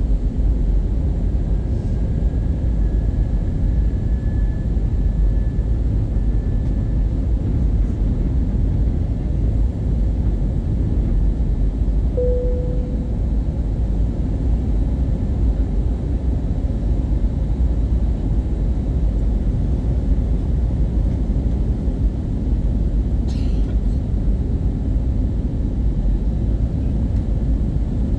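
Steady cabin noise inside an Airbus A320-232 in flight: a low rumble of airflow and engines. A brief faint tone sounds about halfway through, and a short click comes a little later.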